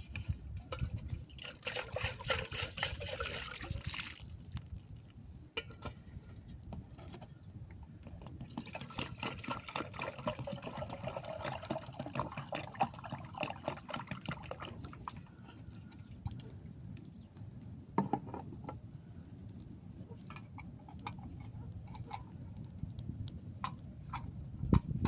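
Water splashing and trickling in two stretches, one starting about a second in and another from about eight to fourteen seconds in, over a low steady rumble. Scattered sharp clicks and knocks follow near the end.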